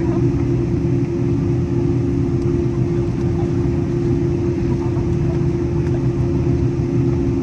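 Cabin noise of a Boeing 777-200ER taxiing: a steady engine hum with a constant low drone and rumble.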